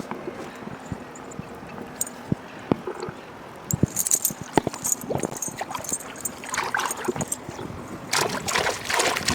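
Water splashing and sloshing with scattered irregular knocks and clatters, busier near the end.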